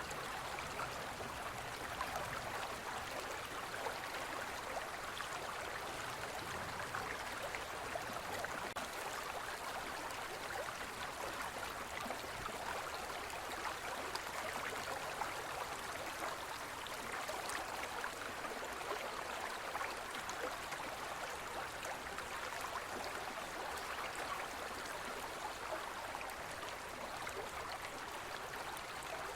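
Shallow forest river flowing steadily over stones, a continuous rushing and babbling of water.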